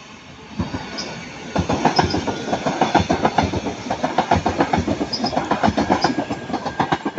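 Northern Class 331 electric multiple unit passing, its wheels clicking rapidly over the rail joints. The clatter starts about half a second in and grows louder about a second and a half in.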